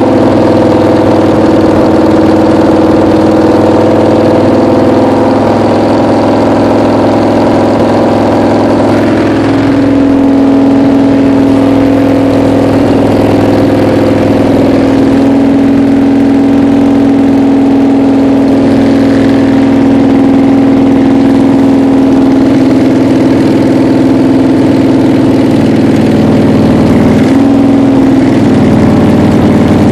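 1966 Plymouth Valiant V100 engine running steadily during its break-in. The engine speed shifts slightly about ten seconds in and again near the end.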